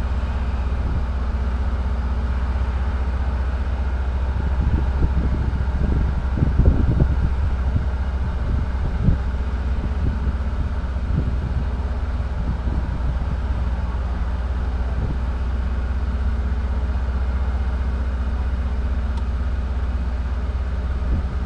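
A parked vehicle's engine idling steadily, a low hum heard from inside the cab, with a few soft bumps between about four and nine seconds in.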